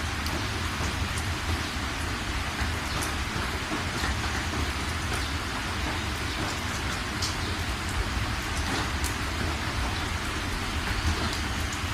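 Steady rain falling, with scattered sharp ticks of close drops over the even hiss and a steady low rumble underneath.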